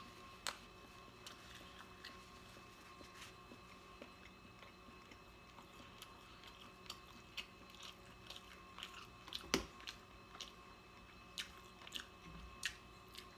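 Faint, close-up chewing and eating mouth sounds: scattered soft clicks and smacks, with one sharper click a little before halfway and a quicker run of them near the end.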